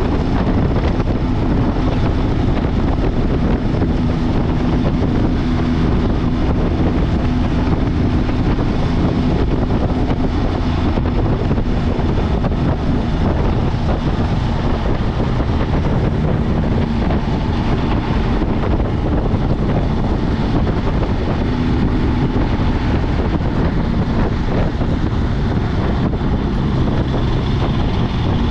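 Steady engine drone of a motorcycle on the move, with wind rushing over the microphone; the pitch wavers slightly without any sharp revving.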